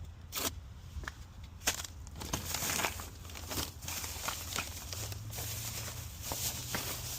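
Crinkling and rustling handling sounds with scattered sharp clicks, over a steady low hum.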